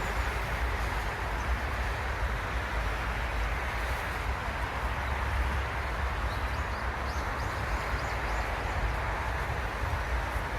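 Steady outdoor ambience: a continuous low rumble and hiss with no distinct events, and a few faint high chirps about two-thirds of the way through.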